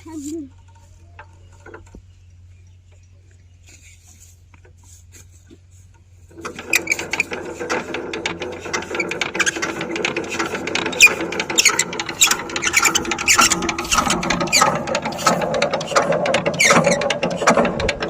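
After about six seconds of quiet with a steady low hum, a power tiller engine starts suddenly and keeps running with a fast, dense mechanical clatter of sharp clicks.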